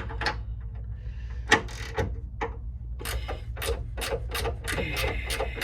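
Hand ratchet working a shock-mount nut: a few scattered metallic clicks, then a steady run of clicks about three or four a second in the second half, over a steady low shop hum.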